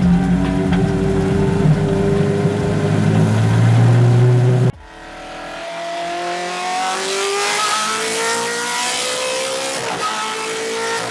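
Ferrari F430's V8 engine, first a deep steady drone that cuts off abruptly about four and a half seconds in. Then a higher engine note rises slowly in pitch as the car accelerates, with a step near the end that sounds like a gear change.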